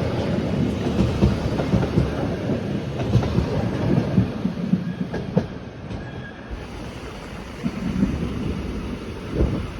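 Regional Rhaetian Railway train running on the metre-gauge Bernina line, a steady rumble with irregular clattering of wheels over the rail. It grows quieter for a moment about six seconds in, then picks up again.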